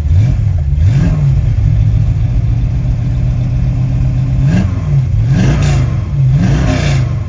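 LS V8 engine idling, blipped by quick throttle revs about a second in and several times in quick succession over the last three seconds.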